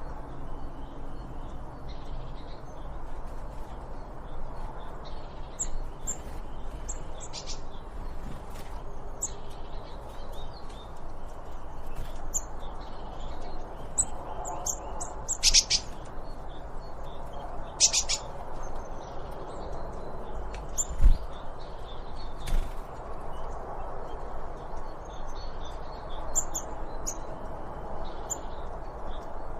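Songbirds chirping and calling at intervals, with two louder, downward-sweeping calls about halfway through, over a steady low background of outdoor noise. A single low thump comes about two-thirds of the way in.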